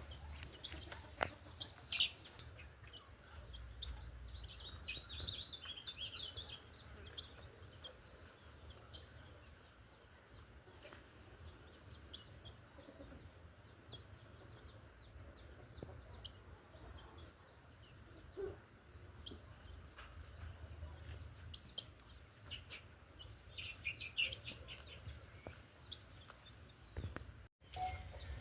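Small birds chirping and twittering on and off, with clusters of calls near the start and again near the end.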